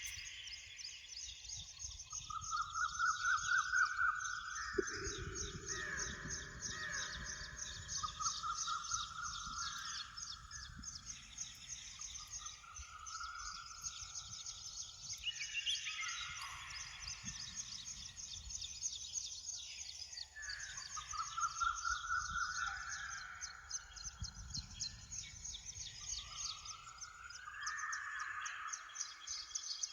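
Wild songbirds singing in woodland: one bird repeats a short rising phrase about every four to five seconds over a constant fast, high-pitched trill from other birds, with a low rumble of wind or distant noise underneath.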